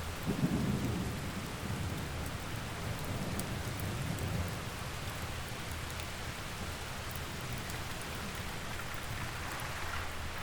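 Steady rain with rolls of thunder, the loudest rumble about half a second in and a weaker one around four seconds, over faint crackles of a wood fire.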